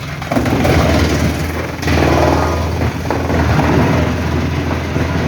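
Heavy machinery running at a steady working speed, with the noise getting louder about half a second in and again about two seconds in.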